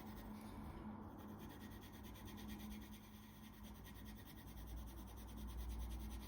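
Coloured pencil lightly scratching across paper in small shading strokes, a sky-blue glaze going over a burnished area, with a faint steady low hum behind it.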